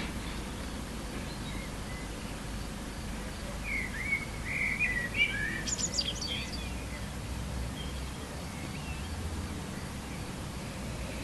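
A bird calling in a quick run of short chirps in the middle, over a steady outdoor background hiss with a low rumble.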